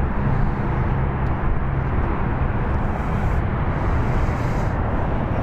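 Steady outdoor background noise: a low rumble with hiss, even throughout, with no engine running on the bike itself.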